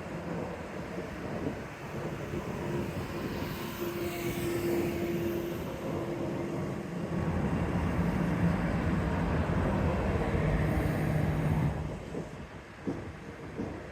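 A train running past on the rails: a steady rumble with a low hum that swells through the middle and drops off sharply about twelve seconds in.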